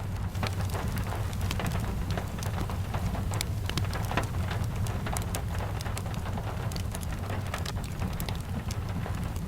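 Steady rain falling, with many small sharp ticks of drops throughout over a constant low rumble.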